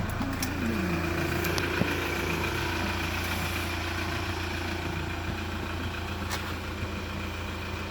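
2018 Hyundai iLoad's 2.5 L four-cylinder common-rail turbodiesel idling steadily, settling back from a brief rev in the first second; the engine has tested good.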